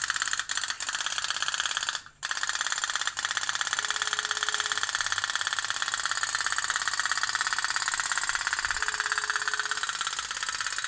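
Tin toy pop-pop boat (kapal otok-otok) running, its lamp-heated steam engine giving a rapid, even putt-putt rattle. The sound breaks off briefly about two seconds in.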